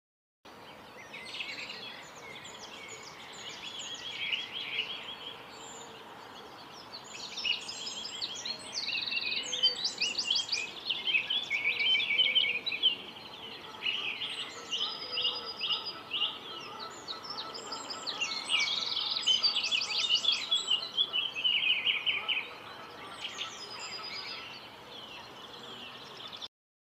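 Several songbirds singing together, a dense run of rapid trills and chirps over a faint steady background hiss; it stops suddenly near the end.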